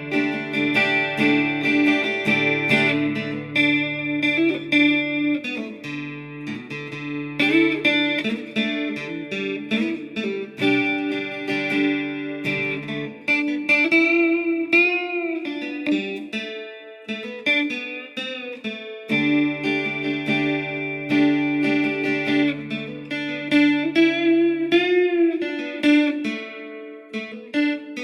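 Acoustic guitar played through a Positive Grid Spark Go portable guitar amp set up for acoustic tone: a picked melody over sustained low bass notes, with a few notes bent in pitch about halfway and again near the end.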